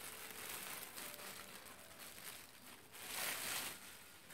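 Packing material crinkling and rustling as a boat compass is handled and unwrapped, loudest about three seconds in.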